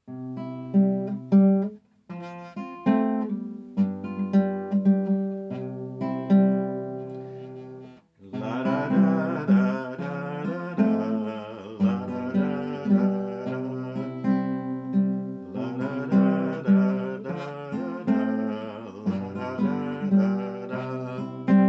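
Acoustic guitar introduction: picked notes for about eight seconds, a brief break, then strummed chords.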